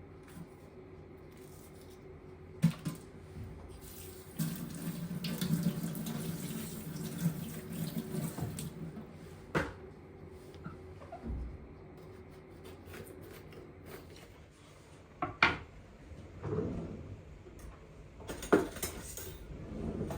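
Kitchen tap running into the sink for about four seconds, with sharp knocks and clinks of dishes before and after it.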